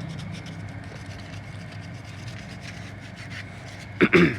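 Repeated rubbing and scraping strokes over a steady low hum. About four seconds in comes a short loud sound that falls in pitch.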